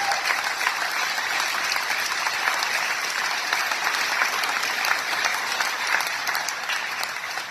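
Crowd applauding: many hands clapping steadily, easing off slightly near the end.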